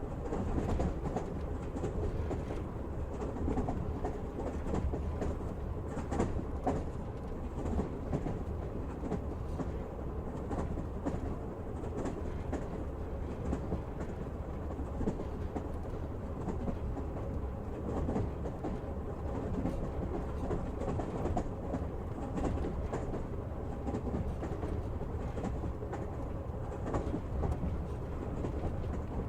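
Passenger train running steadily, its wheels clacking over the rail joints above a continuous low rumble, heard from inside the carriage.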